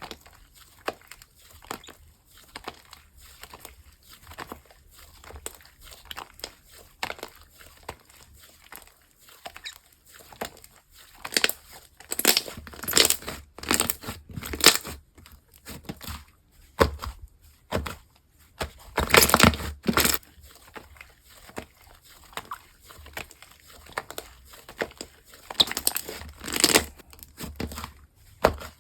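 Slime being handled and squished by hand: a run of small crackling, crinkling pops, with louder bursts of crackling about twelve to fifteen seconds in, again around nineteen to twenty seconds, and near the end.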